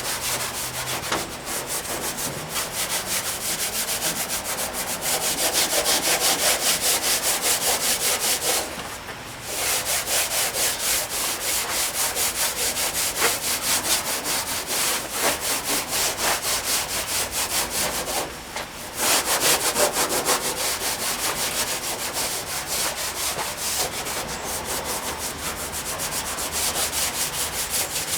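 Scotch-Brite pad scrubbed in rapid back-and-forth strokes over the oil-soaked painted steel panel of a 1959 VW truck, scouring the faded paint to bring back the original blue. The scrubbing pauses briefly twice.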